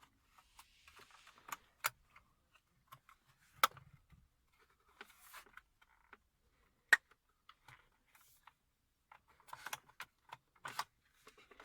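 A handful of light plastic clicks and taps, with faint rustling between them, as the loose louvres of a Peugeot 301 / Citroen C-Elysee dashboard air vent are fitted into their slots. The sharpest click comes about seven seconds in.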